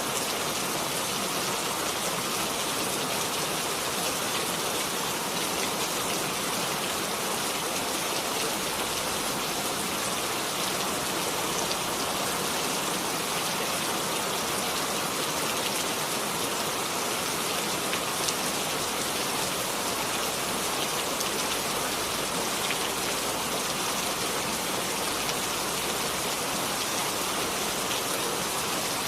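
Steady rain falling and pattering on a surface, with many fine drop ticks and no let-up.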